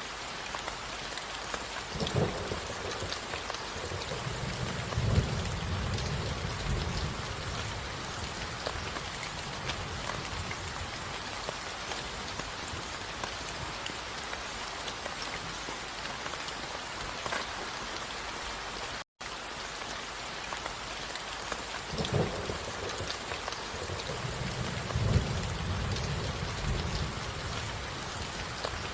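Steady rain falling, with thunder twice: each time a sharp crack followed a few seconds later by a low rumble lasting about two seconds. The sound drops out for a split second about two-thirds of the way through.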